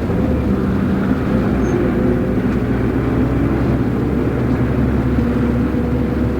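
Route bus heard from inside the cabin while driving: a steady diesel engine drone with road noise, holding an even tone without gear changes or braking.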